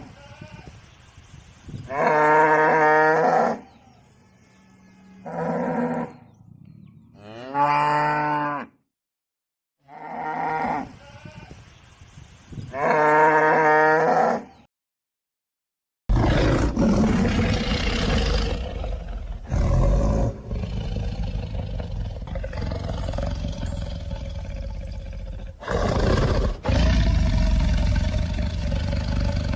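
Domestic cattle mooing, about five long calls of one to one and a half seconds each. After a short silence about halfway through, a different animal's recording follows: a long, rough, noisy passage with no clear pitch.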